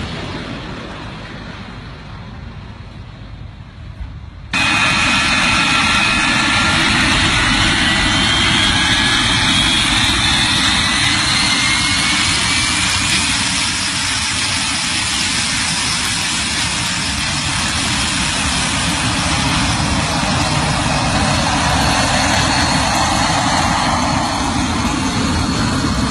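A fighter jet's engine running loud and steady, with a whine rising in pitch for several seconds. The first few seconds are quieter and muffled, then the sound jumps abruptly to full loudness about four and a half seconds in.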